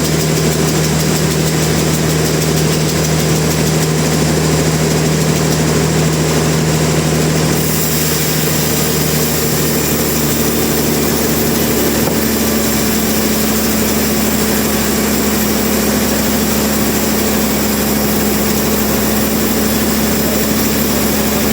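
Machinery engine running steadily with a constant hum; its pitch shifts upward partway through.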